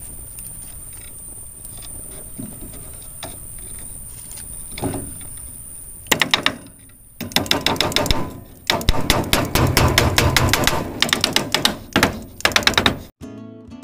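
Fast knife chopping on a wooden board, several strikes a second in bursts, starting about six seconds in after a quiet stretch of forest background with a steady high insect whine. Acoustic guitar music starts near the end.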